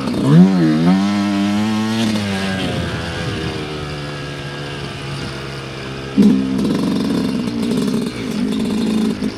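Dirt bike engine under a rider's throttle: a quick rev just after the start, engine pitch easing down over the next few seconds, then the throttle opened again sharply at about six seconds and held.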